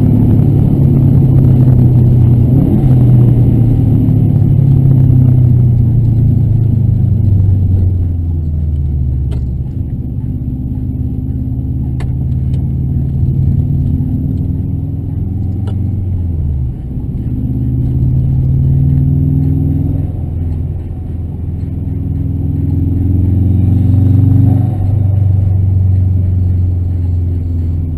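In-cabin sound of a Version 5 Subaru Impreza WRX STi's turbocharged flat-four engine driving along. The engine pulls steadily at first, the revs fall away about eight seconds in and dip lowest about halfway through, then climb again in a couple of rising pulls through the gears. A few faint clicks sound in the cabin.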